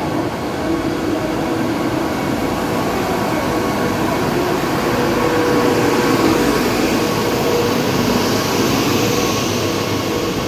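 Passenger express train moving along the platform: a steady rumble of coaches and wheels with a faint mechanical hum, swelling slightly about halfway through.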